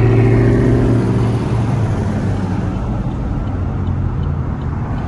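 Car engine running with a steady low drone, loudest in the first second or so and then slowly easing off.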